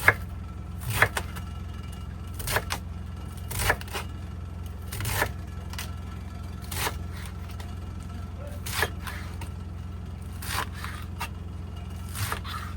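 A utensil scraping against cookware in a series of short strokes, about one every second and a half, over a steady low hum.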